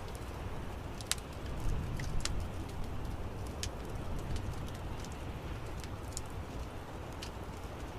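Wood fire in an outdoor fireplace crackling: scattered sharp pops and snaps over a steady low rumble of the flames, which swells briefly around two seconds in.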